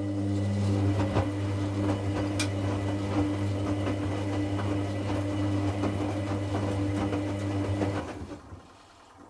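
Hoover Classica 1100 AC164 washing machine's drum motor turning the drum in a rinse cycle: a steady hum with light knocks and clatter from the tumbling wash. The motor stops about eight seconds in, the pause before the drum reverses.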